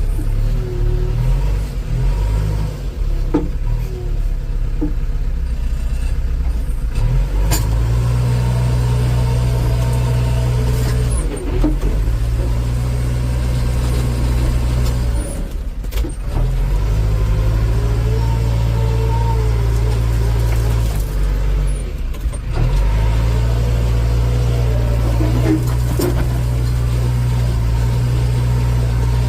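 Heavy diesel engine running hard under load, holding a steady pitch for several seconds at a time and dropping back briefly three times.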